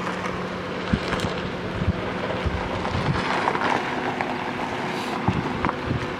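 A vehicle engine running steadily under wind noise on the microphone, with several short knocks and thumps scattered through.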